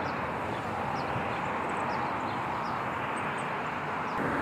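Steady rumble of distant engine noise, such as traffic or a passing aircraft, with a few faint, short, high bird chirps over it.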